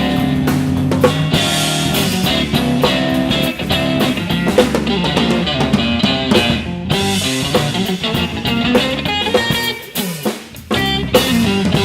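Live blues-rock band playing an instrumental passage on electric guitar, bass guitar and drum kit, with no singing. The band drops out briefly about ten seconds in, then comes back in.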